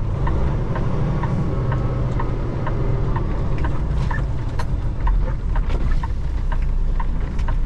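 Semi truck's diesel engine running at low speed, heard inside the cab, with the turn signal ticking steadily about twice a second.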